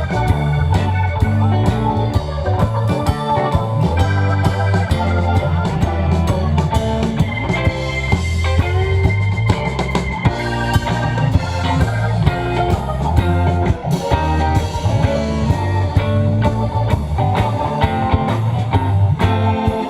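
Live rock band playing an instrumental jam, with electric guitar to the fore over bass and drums.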